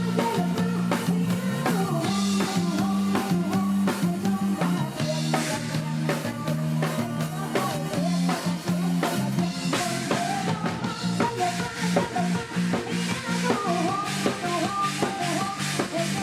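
Live Isan pop band playing an instrumental passage: a drum kit keeping a steady beat over a repeating bass line, with guitar melody on top and no vocals.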